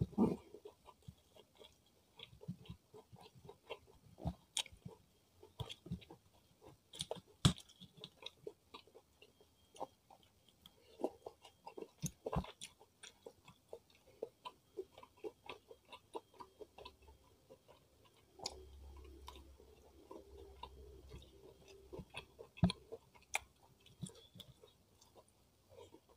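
Close-miked chewing and biting of fried chicken with rice and lettuce: a run of wet mouth sounds and short crisp snaps. The sharpest snaps come right at the start, about seven and a half seconds in, and near the end.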